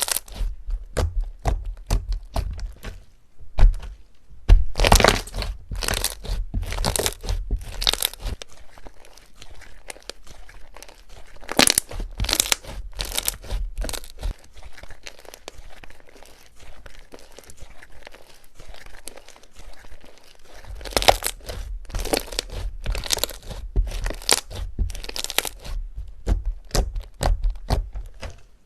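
Crunchy slime being pressed and worked by hand, giving dense runs of sharp crackles and crunches that come in waves.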